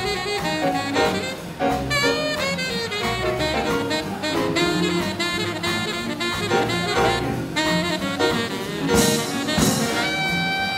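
Big band playing hot swing jazz, with a saxophone section and brass over a walking bass line. There is a bright crash near the end.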